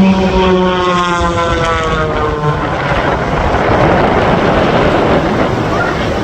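Aircraft passing by at an airshow, its engine note falling in pitch over the first two seconds or so as it goes past, then a broad rushing noise with wind on the microphone.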